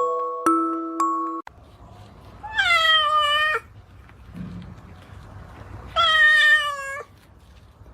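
Domestic cat meowing twice, two long meows about three seconds apart. A few chiming music notes stop about a second and a half in.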